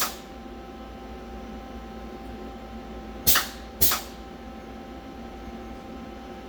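Mori Seiki MV40M machining center during a tool change: a short, sharp air blast hisses at the start, then two more in quick succession about three seconds in, over the machine's steady hum.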